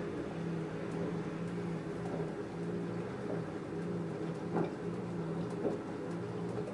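LG F10A8HDS5 front-loading washing machine turning its drum with a full load of cottons. The motor hum swells and fades about once a second, and there are a few soft knocks from the tumbling laundry in the second half.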